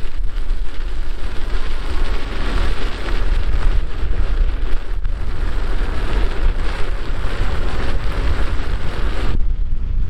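Loud wind rushing and buffeting on the microphone of a rider moving fast, with a deep rumble; the hiss thins out near the end.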